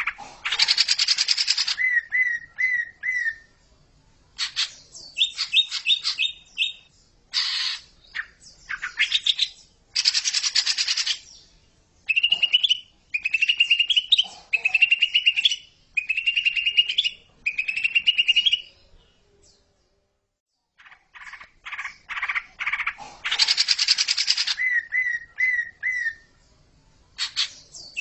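Cucak ijo (green leafbird) song played as a repeating master recording: quick chattering notes and harsh rasping bursts, then a run of five rising whistled phrases. It breaks off briefly about twenty seconds in and the same sequence starts over.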